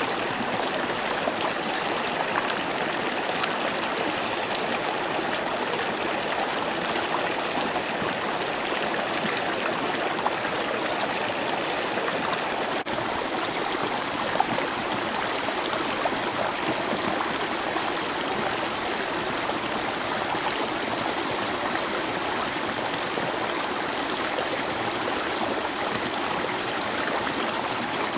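A creek flowing steadily, water rushing and splashing over rocks with small bright splashes throughout.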